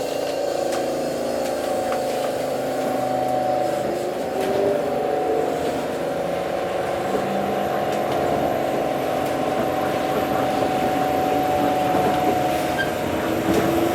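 Tokyo Monorail train running along the line: a steady electric motor whine of several tones that slowly shift in pitch, over a continuous running rumble, with a few faint clicks.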